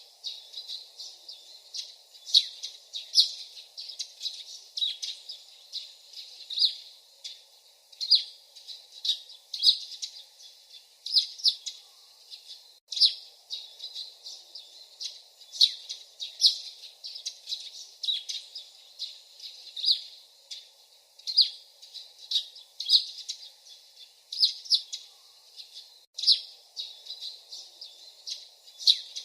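Songbird chirping: short, sharp high notes repeated roughly once a second, over a faint steady low hiss.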